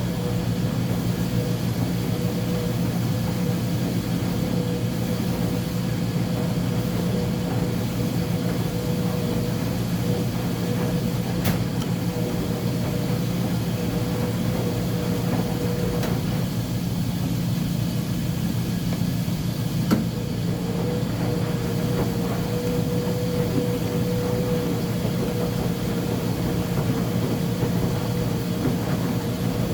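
Uni-Mac UniMat 35 commercial washing machine running steadily with a blanket load: a constant motor hum with a faint held whine above it, and a sharp click about two-thirds of the way through.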